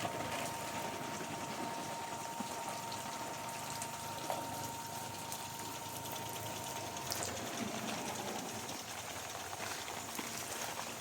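Garden sprinklers spraying water in a steady hiss, with a faint steady high tone fading out about halfway through.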